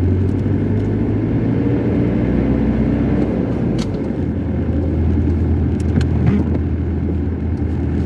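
Car driving, with a steady low engine and road hum. A faint engine tone rises and falls a couple of seconds in.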